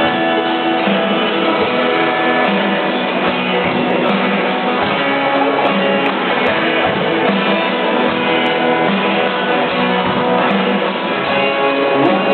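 A school rock band playing an instrumental passage led by guitars, without singing.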